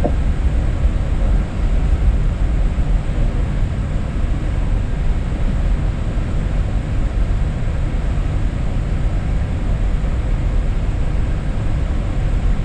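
Steady low rumble of air and engine noise inside an Airbus A320neo cockpit in flight, even and unchanging throughout.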